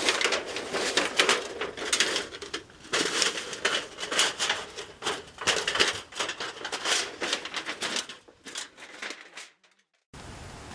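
Dense, irregular crackling and crunching from close handling of material, stopping about nine and a half seconds in; after a brief silence a steady hiss begins near the end.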